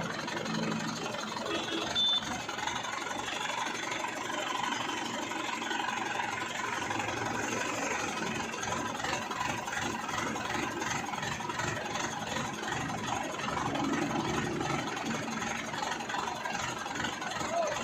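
A vehicle engine running steadily, with a short high beep about two seconds in.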